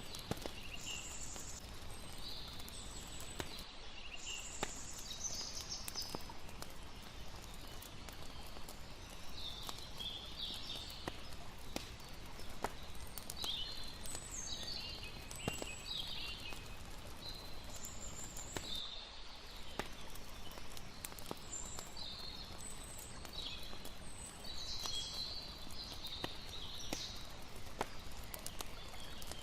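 Layered night ambience: a campfire crackling with scattered sharp pops over a steady soft hiss, with frequent short high chirping calls throughout.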